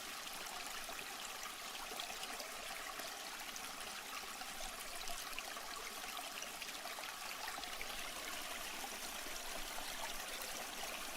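Steady trickling, splashing water, an even hiss with fine flecks that neither stops nor changes.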